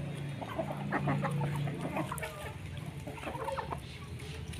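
A flock of chickens clucking, with many short, overlapping calls over a low, steady hum.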